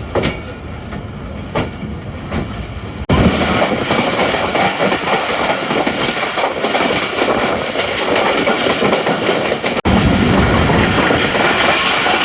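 Passenger express train running on the rails: wheels clicking over rail joints under a steady rumble and rushing noise. The sound jumps abruptly louder about three seconds in and breaks off and resumes near the end.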